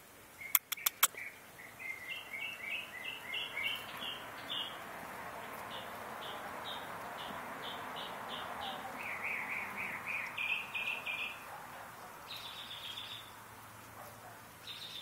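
A songbird singing phrases of short, quickly repeated high notes, several phrases in turn, over a soft steady rushing background. About half a second in, four sharp clicks come in quick succession, the loudest sounds here.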